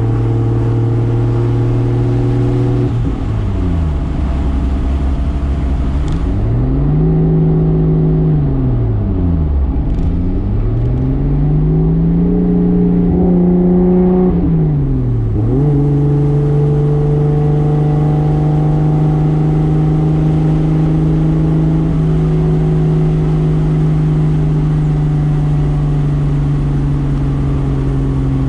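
1995 Toyota Soarer's single-turbo 2JZ straight-six running under way. Its pitch falls and climbs again in smooth sweeps three times over the first half, then holds steady at a constant engine speed.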